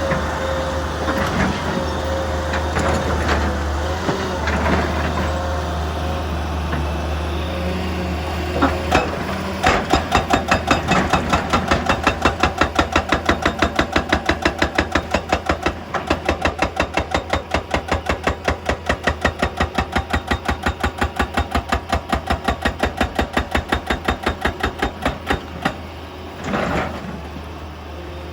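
Heavy machinery: a diesel engine running steadily, then from about ten seconds in a fast, regular pounding at about three strokes a second that goes on for some fifteen seconds before stopping.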